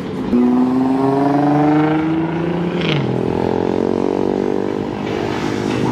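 Car engine accelerating hard past: its pitch climbs for about two seconds, drops at a gear change about three seconds in, then holds steady as it pulls away.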